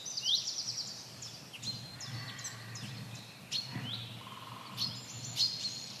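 Birds chirping: a quick high trill near the start, then scattered short high chirps and downward-sliding notes.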